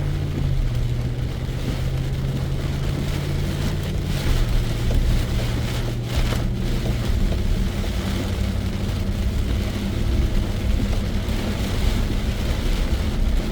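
Pouring rain on a car, heard from inside the cabin, over the steady hum of the engine and road noise. The engine note drops a step about four seconds in and again about seven seconds in.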